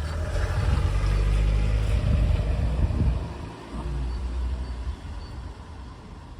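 A motor vehicle passing on a nearby road: a low engine and tyre sound that swells over the first second, is loudest for about two seconds, then fades away in the second half.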